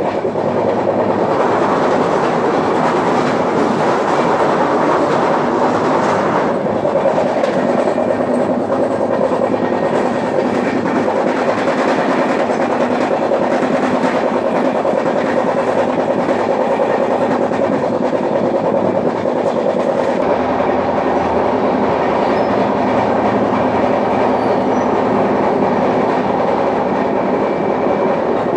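Dhauli Express express train running at speed, heard from the coach doorway: a loud, steady roar of wheels on rails. The tone shifts about six seconds in and again about twenty seconds in.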